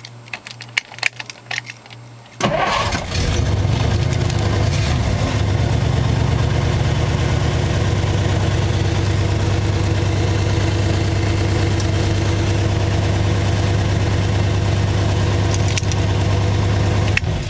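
A Studebaker's engine, fed by a rebuilt Carter AFB four-barrel carburettor with a manual cold-start choke, catches suddenly about two and a half seconds in after a few clicks, runs steadily, and is shut off just before the end. It is a cold-start test of the choke, which the owner finds works better than he expected.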